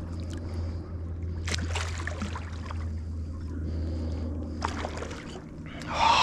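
Water splashing in a couple of short bursts as a hooked mulloway is played in the shallows, over a steady low hum. A short, louder burst comes at the very end.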